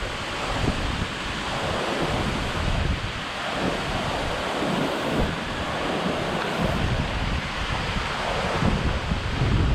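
Waterfall pouring, a steady rushing of water, with gusts of wind rumbling on the microphone.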